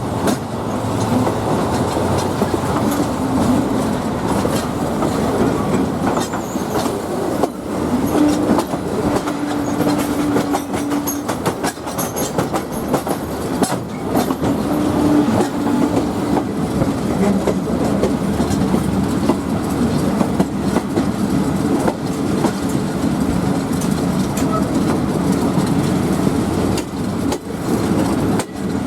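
State Railway of Thailand train running on the track, its wheels clicking over rail joints in a quick run of clacks near the middle, over a steady rumble with a held humming tone that comes and goes.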